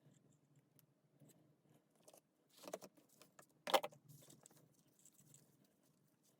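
Light metallic clinks and rattles of small tools and parts being handled, with two louder knocks a little before the middle.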